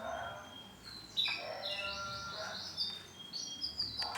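Male canary singing: quick rolling trills and repeated chirping phrases, mostly high-pitched, mixed with some lower warbling notes.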